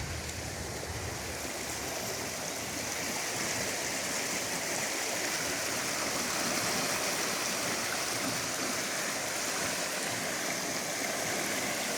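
Floodwater rushing steadily through a swollen creek under a bridge, growing a little louder over the first few seconds. The creek is running far above its normal depth after a night of heavy rain.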